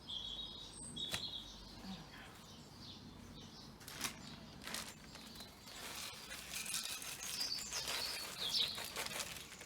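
Small garden birds chirping, with a few short high chirps about a second in and a quick falling call near the end, over scattered knocks and clicks.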